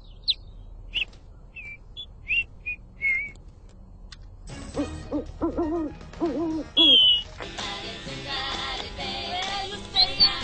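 A small songbird's short, high chirps, several in the first three seconds; then a pigeon's low, hooting coos in short phrases for a couple of seconds. Music comes in about seven and a half seconds in.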